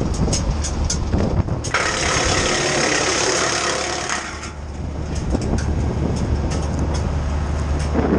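Titan wood chipper running on a Kioti sub-compact tractor, a steady low drone with sharp clicks of wood being cut. From a little under two seconds in to about four and a half seconds, a loud rushing hiss as pine branches are fed through and chipped.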